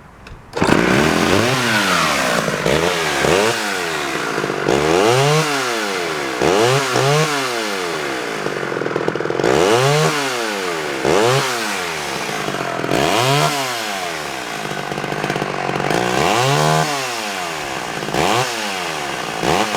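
Homelite XL-12 Automatic two-stroke chainsaw starts about half a second in and runs, its throttle blipped over and over so the engine pitch rises and falls every second or two.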